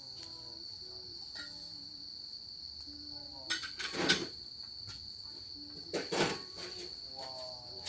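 Crickets chirring steadily in a continuous high-pitched drone, with a few louder clattering knocks about halfway through and again near the end.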